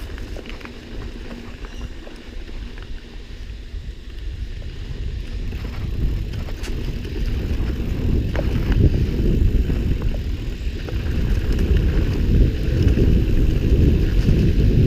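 Giant Trance 2 mountain bike rolling over a dirt trail: a steady tyre rumble with wind buffeting the microphone and scattered light clicks and rattles, growing louder about halfway through as the speed picks up.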